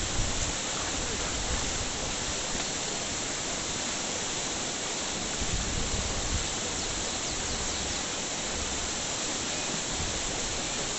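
Steady, even rushing noise with no clear pitch and an unsteady low rumble.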